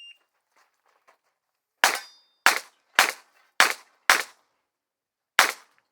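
A shot timer's short electronic start beep, then a competition revolver fired six times: five shots about half a second apart starting about two seconds in, then a pause and a sixth shot near the end.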